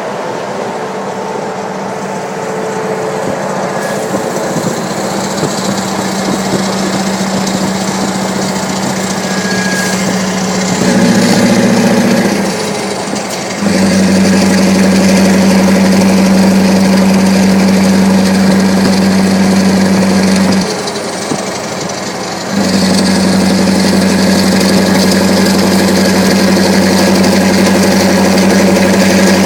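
Scania V8 diesel engine with an open, unsilenced exhaust running at a steady speed. It grows gradually louder over the first ten seconds, then holds loud and even, with two short dips in level about twelve and twenty-one seconds in.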